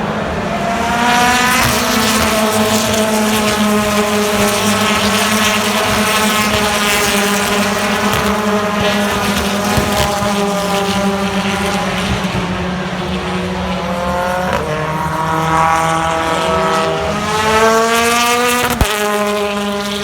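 BTCC touring car's 2.0-litre turbocharged four-cylinder engine at racing speed: it climbs in pitch about a second in, holds high while slowly sinking, drops sharply about two-thirds through as it comes off for a corner, then revs up again to a sudden gear change near the end.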